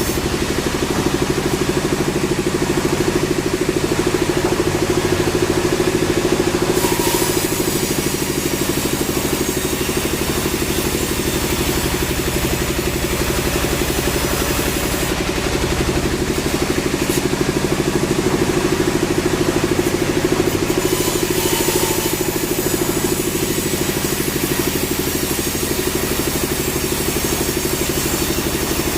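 Sawmill machinery running steadily, an engine-like drone with a fast, even pulse that holds at a constant level.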